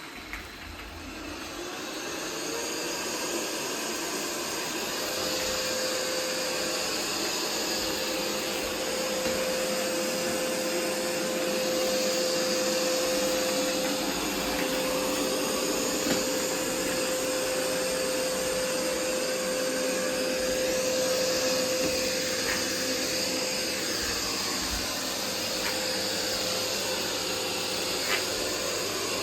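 Roomba 505 robot vacuum running, its motors building up over the first couple of seconds into a steady hum with a held whine. A few faint clicks sound now and then.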